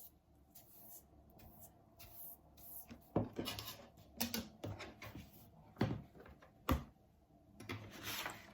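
Household objects being handled in a small room: a few sharp knocks and clicks, with brief rustling in between.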